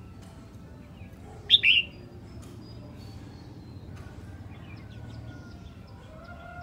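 Red-whiskered bulbul giving one short, loud two-note call about one and a half seconds in, over a low steady hum and a few faint bird notes.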